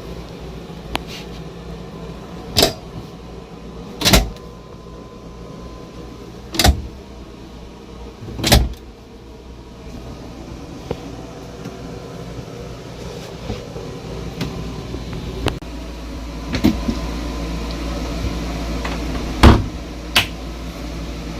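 A handful of sharp knocks and clunks of boat galley cabinet doors and pantry hatches being opened and closed, four in the first nine seconds and a few more near the end, over a steady low hum.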